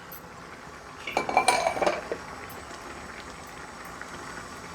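A metal spoon stirring and scraping in a steel pot of curry, with a burst of clinking and ringing scrapes about a second in, then a faint steady background.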